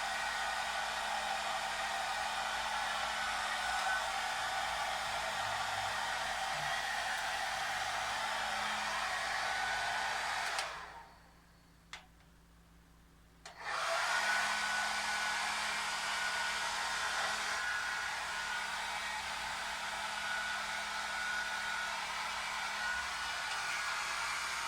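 Hair dryer blowing steadily, a rushing noise with a faint whine in it. About eleven seconds in it switches off, there is a single click in the quiet, and it starts up again about three seconds later.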